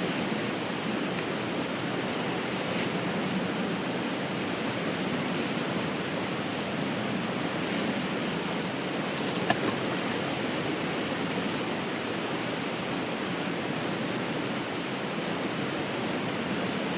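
Steady rushing of a river flowing, an even wash of water noise, with one brief click about nine and a half seconds in.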